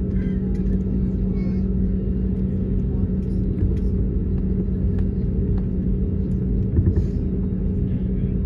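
Steady rumble and constant hum of an Airbus A320neo's running CFM LEAP-1A engines and cabin air, heard inside the cabin, with a few faint knocks or rattles a little before the end.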